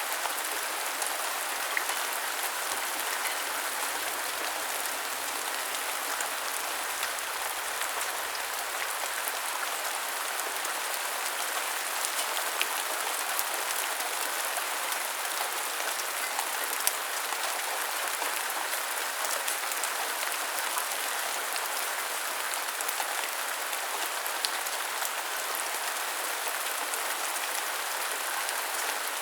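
Steady rainfall: an even hiss of rain with scattered sharper drop clicks.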